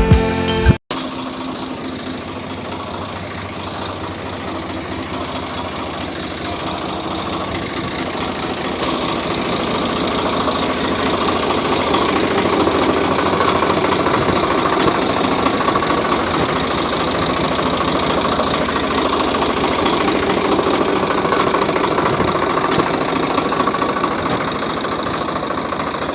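Mini tractor's motor running steadily, growing louder toward the middle and easing off near the end. A short stretch of music cuts off abruptly under a second in.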